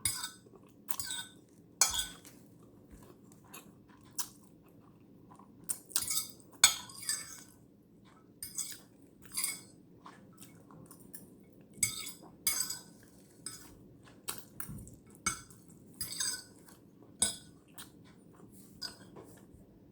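Eating instant noodles close to the microphone: a utensil clinking and scraping against the dish in short, irregular strokes, with chewing between them.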